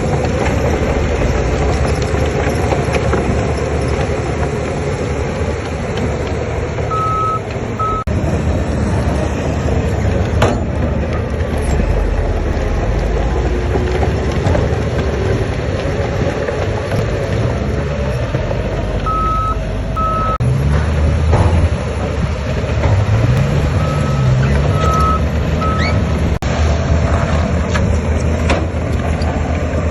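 Heavy diesel earthmoving machinery running steadily, with engine pitch rising and falling as it works. A reversing alarm beeps in short runs of two or three, a few times over.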